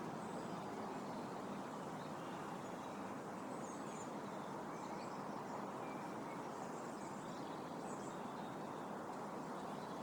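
Wind blowing steadily through trees, a constant rustle of leaves, with faint bird chirps now and then, a few about four seconds in and again near eight seconds.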